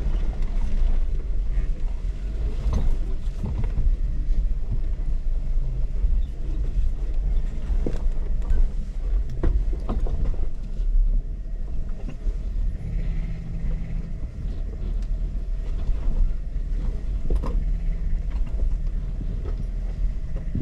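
An off-road vehicle's engine running at low speed while crawling over a rocky trail, with scattered knocks and crunches from the tyres and underbody on rock.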